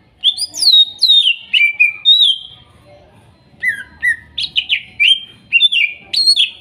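Cucak ijo (green leafbird) singing: loud, clear whistled notes that slide downward, strung into quick phrases in two runs with a short pause between.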